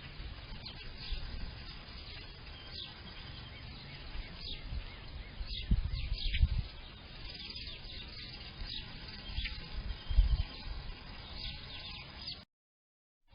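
Several small songbirds chirping and singing with short high notes and slurred calls, over a low rustle of wind on the microphone that bumps a few times. The sound breaks off near the end.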